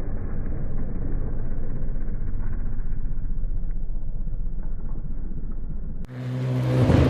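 Rally car engine and road rumble, steady and muffled, for about six seconds; then a sudden change to a louder, clearer rally car engine revving up, rising in pitch and growing louder to the end.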